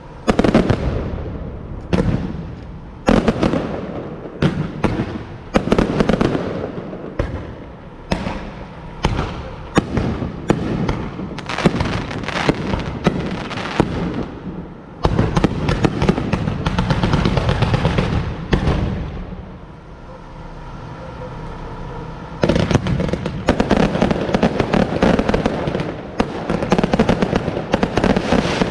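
Fireworks going off: a run of sharp bangs about a second apart, then two long spells of dense crackling, the second starting about two-thirds of the way through.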